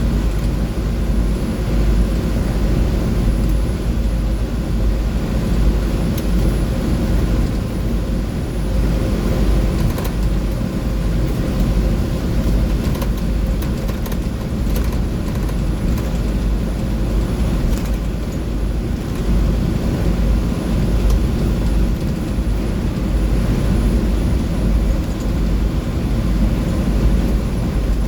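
2004 Blue Bird 3800 school bus cruising on the interstate, heard from inside: steady low rumble of its International DT466E inline-six turbo diesel mixed with road noise. A few light clicks and rattles come through around the middle.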